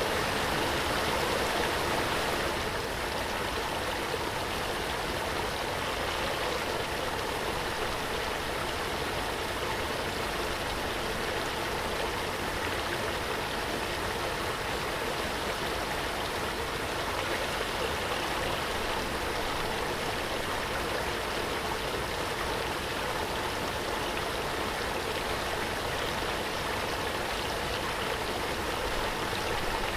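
Waterfall: a steady, unbroken rush of falling water, dipping slightly in level about two and a half seconds in.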